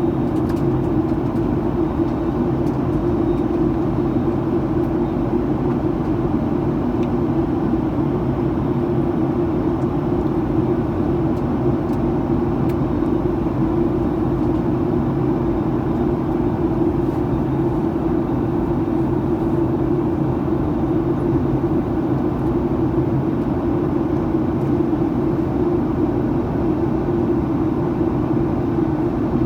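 Steady cabin noise inside a Boeing 737-900ER in flight: an even drone of engines and airflow with a strong low hum that holds unchanged throughout.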